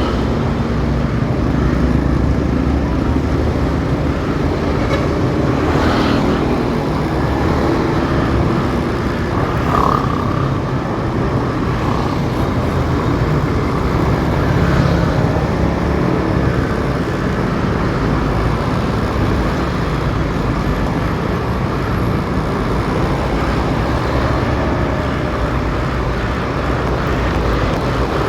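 Motorcycle riding in city traffic: steady engine and road noise, with a brief higher tone about ten seconds in.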